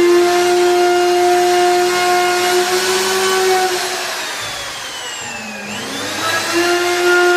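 High-speed electric power tool motor whining steadily. About halfway through it winds down in pitch and level, then speeds back up to full speed.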